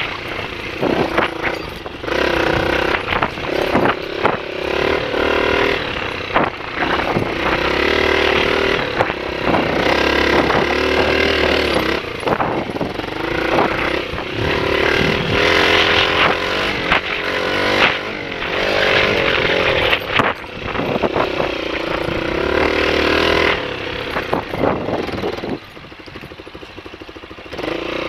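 Honda XLR125 single-cylinder four-stroke dirt bike engine running, its revs rising and falling in several stretches, with clattering clicks over it; it drops to a lower, quieter run near the end.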